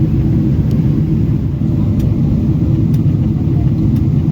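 Steady low cabin roar of a Boeing 777-300ER in flight: its GE90 engines and the airflow over the fuselage heard from inside the passenger cabin. A few faint ticks come about two, three and four seconds in.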